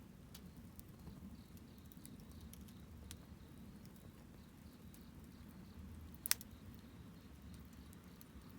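Wood campfire burning, with a low steady rush and scattered sharp crackles from the burning wood. One much louder pop about six seconds in.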